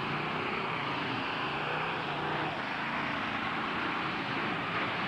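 Demolition-derby truck engines running together, a steady rumble with no crash impacts.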